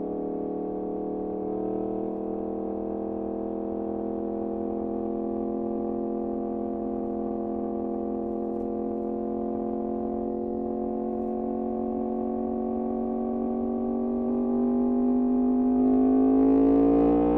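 Yamaha MT-10's crossplane inline-four running through an Austin Racing exhaust, holding a steady pitch that creeps slowly upward. It climbs faster and gets louder over the last few seconds as the bike accelerates.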